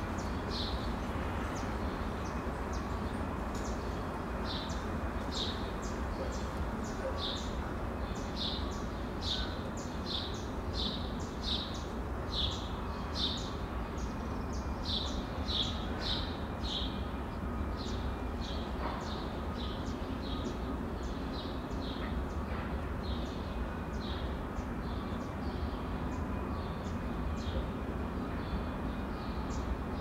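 A small bird chirping over and over, about two short high chirps a second, fading near the end. A steady low rumble of outdoor background noise runs underneath.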